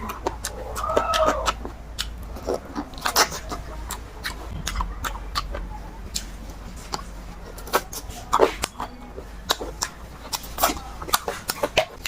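Close-miked eating sounds: chewing, mouth smacks and wet clicks of someone eating chicken curry with rice, scattered irregularly throughout. A bird call sounds briefly about a second in.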